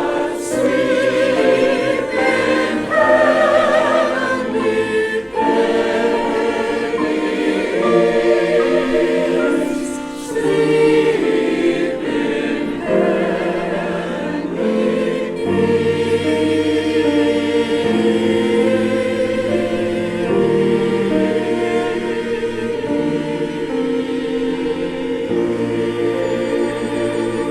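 Church choir singing a Christmas piece with orchestral accompaniment, sustained chords with vibrato.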